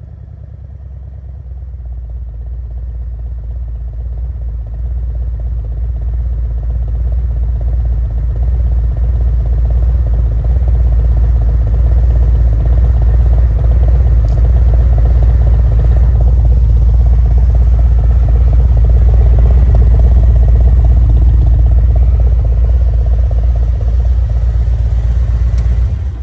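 Harley-Davidson Road Glide V-twin running through Khrome Werks 2-into-2 mufflers with no baffles, wide open: a deep, even exhaust pulse. It grows louder over the first several seconds, holds steady, and then cuts off suddenly at the end.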